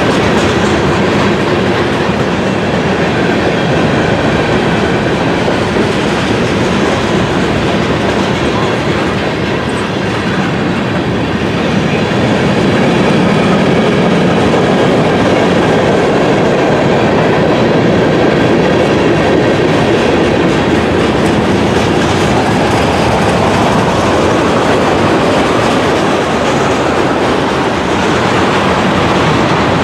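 Train passing close by: a loud, steady rush of wheels on rail that grows slightly louder about twelve seconds in.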